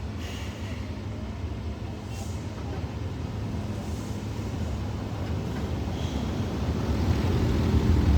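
Automatic car wash tunnel machinery running with a steady low rumble that grows louder over the last couple of seconds.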